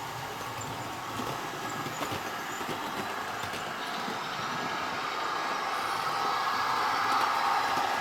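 Model train running along the layout track: a steady rolling rumble of wheels and motor that grows gradually louder as it comes closer.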